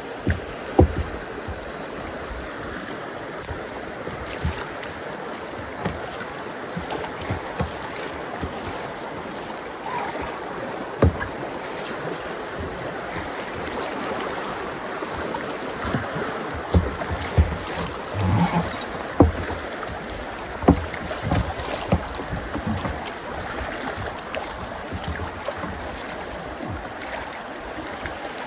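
Canoe on a river: irregular paddle splashes and knocks over a steady rush of water and wind noise.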